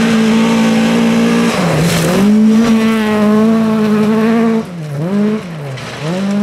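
Volvo 740 Group H rally car's engine held at high revs, with the revs dipping and recovering about one and a half seconds in. Near the end the revs fall and rise again twice.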